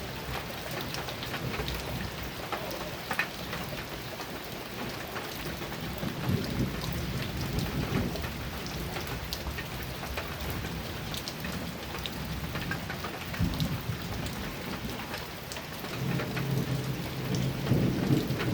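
Heavy rain pattering on a metal roof, many sharp drop ticks over a steady hiss. Low thunder rumbles in several times, the longest roll building near the end.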